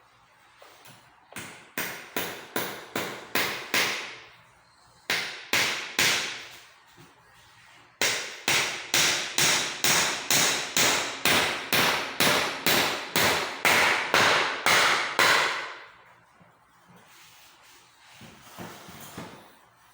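Hammer blows driving into a school chair during repair, struck in runs of two to three blows a second with short pauses between runs; the longest run, near the middle, lasts about seven seconds.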